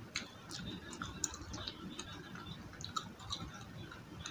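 Close-up chewing of crunchy battered fried food, with irregular crisp crackles and clicks.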